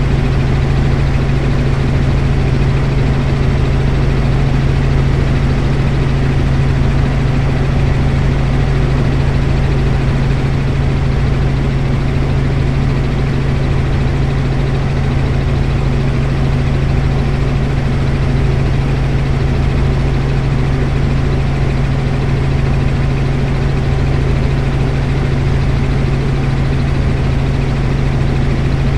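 Helicopter rotor and engine running steadily, a loud constant drone with a strong low hum.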